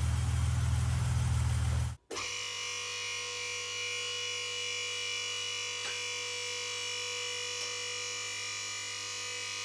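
A steady low machine drone that cuts off sharply about two seconds in, followed by a steady electric motor whine made of several fixed tones.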